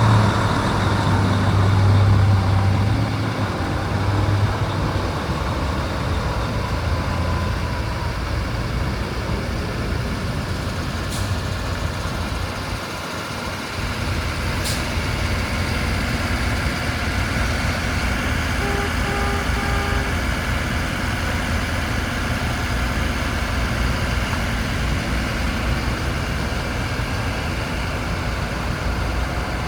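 International 4300 box truck's diesel engine idling steadily, with a heavier low rumble in the first few seconds. Two short clicks sound around the middle, and three short beeps about two-thirds of the way through.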